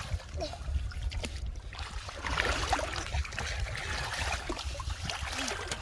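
Shallow muddy water splashing and sloshing unevenly as hands feel through it for fish, busiest a couple of seconds in.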